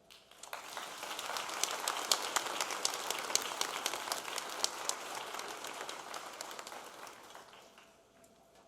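Audience applauding, building up quickly and then fading out over the last couple of seconds.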